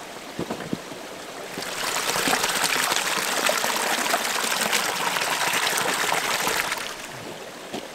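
Water being poured in a steady stream for about five seconds, starting about a second and a half in, after a few light knocks.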